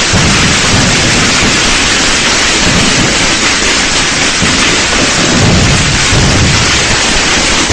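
Dense fireworks barrage: a continuous crackling hiss of many small bursts merging together, with low rolling booms that swell about five to six and a half seconds in.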